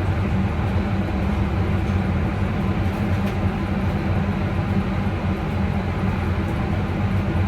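A steady, unchanging mechanical drone with a low, engine-like hum.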